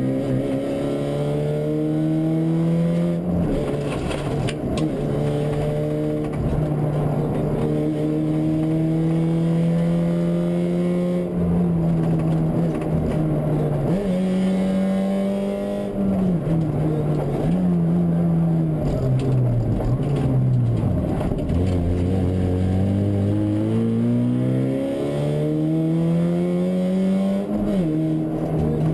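Fiat Punto 1.8 rally car's engine heard from onboard at racing speed: the engine note climbs and drops abruptly again and again as it shifts through the gears. About two-thirds of the way in it falls much lower, then climbs steadily near the end.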